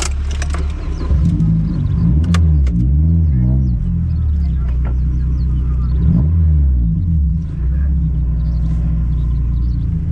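Car engine running with a heavy low rumble, its pitch rising and falling several times, with a few sharp clicks in the first three seconds.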